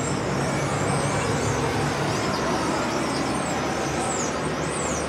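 Many birds chirping at a roost, with short high calls overlapping, over the steady rush of road traffic.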